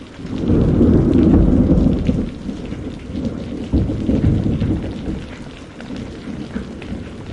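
Steady rain with a roll of thunder: a deep rumble builds about half a second in, rumbles again near four seconds, and fades away, over the constant patter of the rain.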